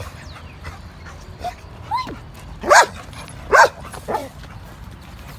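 Pet dogs giving a few short, high barks and yips, the two loudest about a second apart in the middle.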